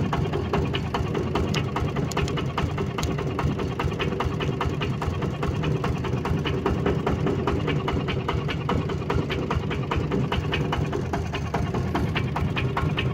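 Kubota ZT155 single-cylinder diesel engine on a walk-behind tractor running steadily at an even speed, with a rapid, regular diesel knock.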